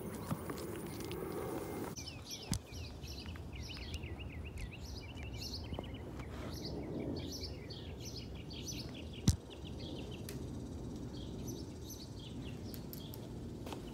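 Small birds chirping and singing in quick repeated phrases, with one sharp knock about nine seconds in.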